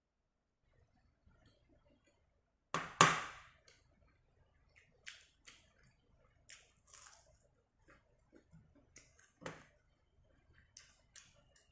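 Crunching and chewing of crispy battered fried shrimp with rice, eaten by hand: a loud crackly crunch about three seconds in, another about six seconds later, and small crisp clicks of chewing between them.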